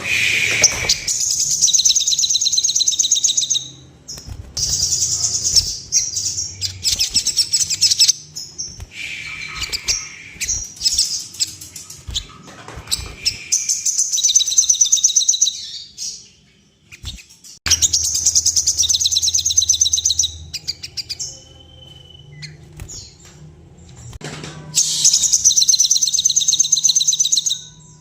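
Sogon songbird song: loud, rapid, high-pitched chattering trills in repeated bursts of a few seconds each, with short pauses between. It is played as a lure call meant to bring a sogon into breeding display.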